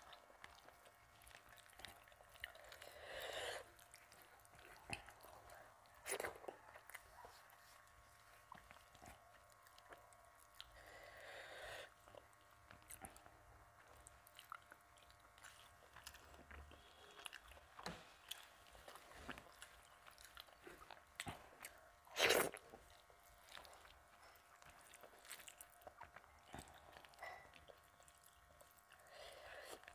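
Close-up eating sounds: soft chewing and wet mouth clicks as rice is eaten by hand, with quiet squishing of fingers mixing food on the plate. One louder, sharper sound about twenty-two seconds in.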